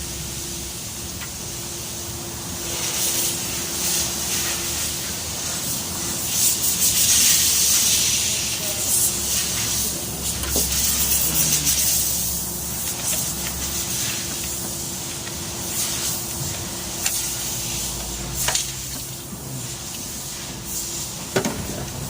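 A hissing rush that swells for several seconds in the middle and then fades, over a faint steady hum, with scattered sharp clicks and knocks of metal tools.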